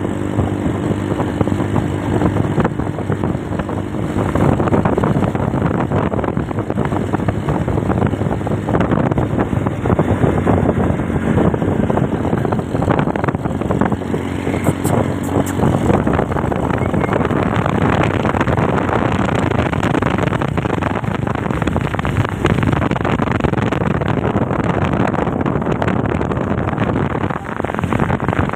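Motorcycle running steadily at riding speed, with heavy wind rush on the microphone.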